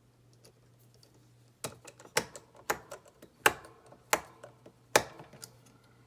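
A run of about half a dozen sharp clicks and taps, irregularly spaced roughly half a second to a second apart, from plastic scale-model parts and small screws being handled during assembly, over a faint steady hum.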